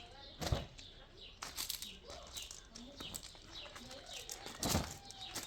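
Small birds chirping repeatedly in short falling notes, with two brief loud noise bursts, one about half a second in and one near the end.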